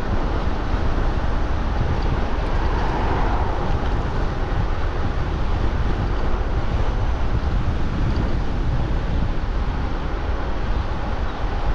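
Steady wind rush on the microphone of a moving e-bike, mixed with road noise.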